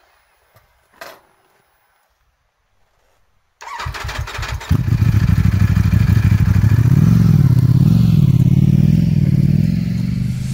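Ducati Panigale V4 motorcycle's V4 engine being started: about three and a half seconds in the starter cranks for roughly a second, then the engine catches and runs at a loud fast idle whose pitch rises and falls.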